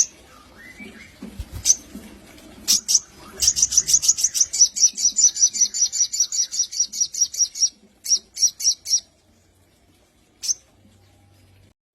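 Sogon (sunbird) singing: a few sharp high chips, then a fast trill of high notes, about seven a second, lasting some four seconds, then four quick notes and one last chip near the end.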